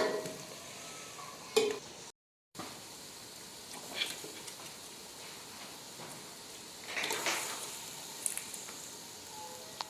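Small birds frying in oil in a pot, a steady sizzle with occasional knocks and scrapes of a spoon stirring. The sound drops out completely for half a second about two seconds in.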